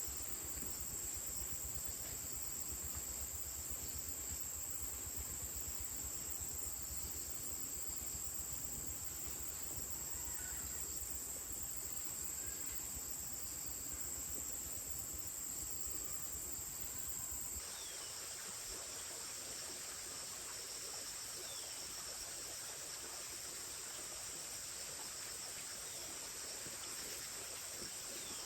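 Steady high-pitched insect chorus, with a low rumble under it that drops away abruptly about two-thirds of the way through. Faint short chirps follow in the last part.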